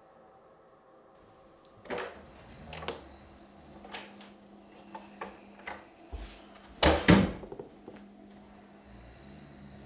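Interior door being handled: a series of clicks and light knocks, then two loud bangs a fraction of a second apart about seven seconds in.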